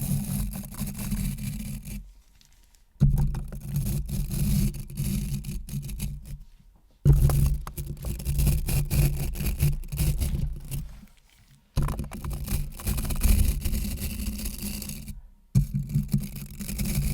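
Close-up scraping and rubbing sounds made as ASMR triggers. They come in stretches of about three to four seconds, with short silent breaks between them.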